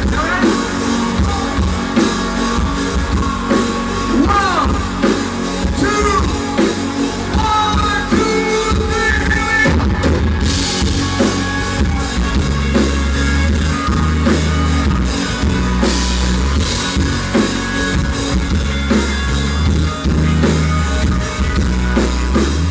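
Live country-rock band playing a song's opening on drums, bass and electric guitar, recorded loud and rough. About ten seconds in the band drops back briefly, then the bass and drums come in heavier and drive steadily.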